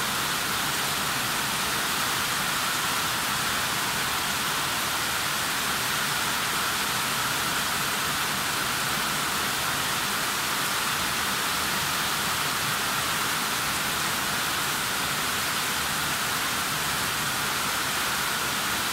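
Heavy rain pouring down steadily, an even, unbroken hiss with no let-up.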